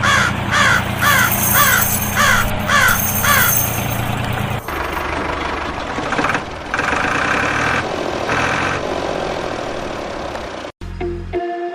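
Repeated cawing calls, about two a second, falling in pitch, over a steady low motor hum. The calls end after about three and a half seconds and the hum about a second later, leaving a rougher noise until the sound cuts off near the end.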